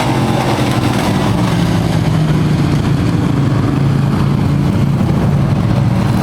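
Racing truck engines running on a dirt oval: a steady, deep engine drone with no clear pass-by.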